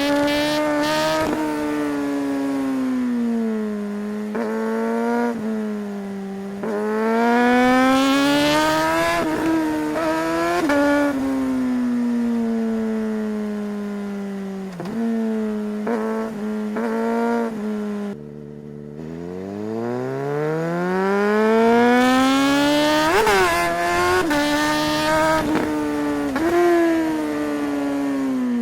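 Suzuki GSR 600 inline-four engine accelerating hard through the gears with a quickshifter. The revs climb, then dip sharply at each upshift and climb again. About two-thirds of the way through, the revs fall suddenly to low and then build back up in one long rise.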